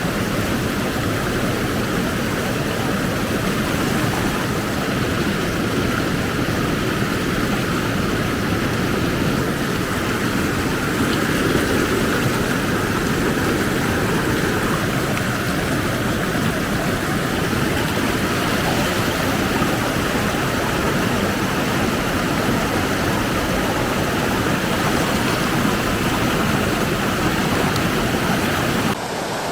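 Steady rush of whitewater river rapids, a loud even roar of water with no let-up, shifting abruptly just before the end.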